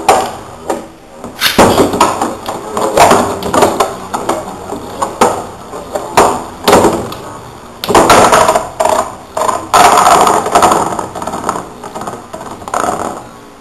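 Spinning Beyblade Metal Fusion tops, Lightning L-Drago 100HF and Storm Pegasus 105F, clashing and scraping against each other in a plastic stadium: a rapid, uneven run of sharp metal hits and rattles over a whirring grind.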